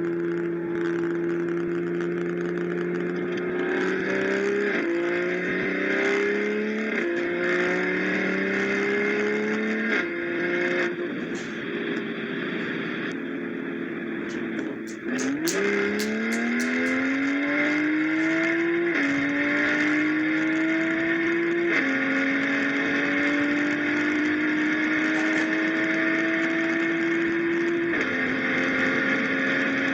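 BMW M340i's turbocharged 3.0-litre straight-six, on an MHD Stage 2 tune with an aftermarket exhaust, accelerating through the gears: the engine note climbs and then drops at each upshift every few seconds. About halfway the note falls sharply and then climbs steeply under hard acceleration, with a brief run of sharp cracks.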